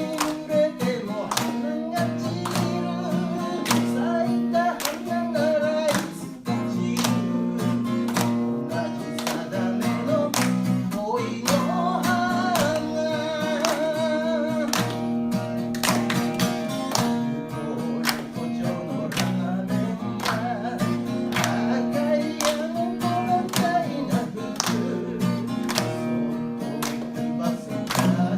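Acoustic guitar strummed in a steady, even rhythm, accompanying a singer's melody.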